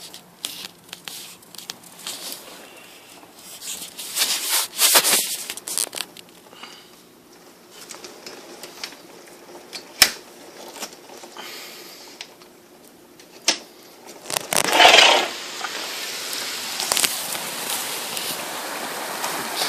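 Rain pattering and crackling on a hard surface, with scattered sharp clicks. About fifteen seconds in, a louder rush, after which the rain noise holds steadier and fuller.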